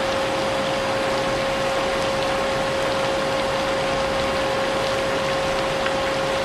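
A vacuum cleaner running steadily with a constant high hum, mixed with a continuous hiss of rain, as white noise.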